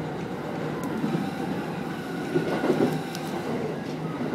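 Sōbu Line Rapid commuter train rolling slowly along a station platform as it pulls in, with a steady rumble of wheels and motors heard from inside the front car. The rumble swells briefly about two and a half seconds in.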